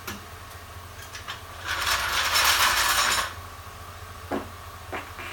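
A mechanical ratcheting rattle lasting about a second and a half, followed by two short clicks.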